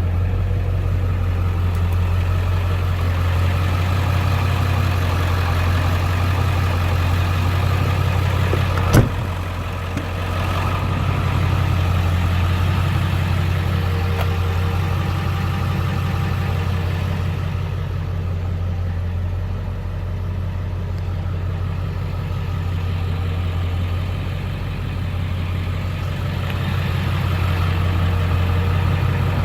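Ford 7.3 Powerstroke turbo-diesel V8 idling steadily, with a single sharp knock about nine seconds in.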